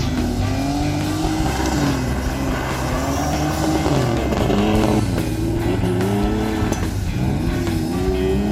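Small car engine revving hard on a timed autocross run, its pitch climbing and dropping again and again, with background music underneath.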